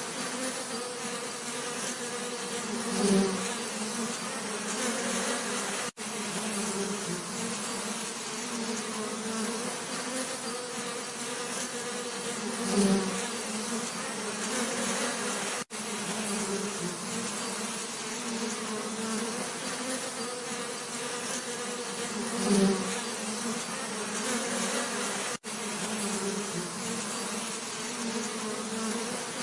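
Bees buzzing in a steady drone. It swells louder for a moment three times, about ten seconds apart, and cuts out for an instant three times, like a looped recording.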